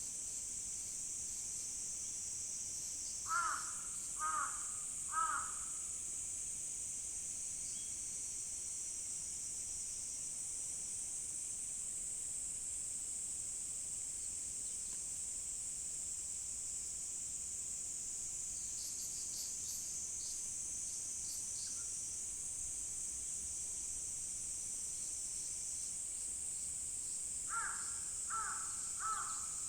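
A crow cawing three times a few seconds in, and three more times near the end, over a steady high-pitched drone of insects.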